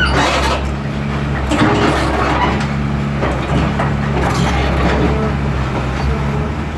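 Heavy diesel engine running steadily, with scattered knocks, creaks and crackles of heavy machinery working over it.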